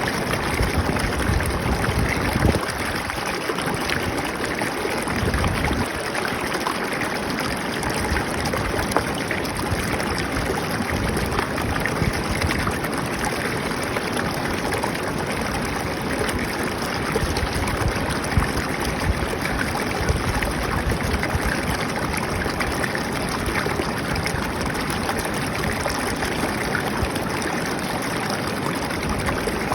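Flowing water trickling and splashing steadily, like a stream.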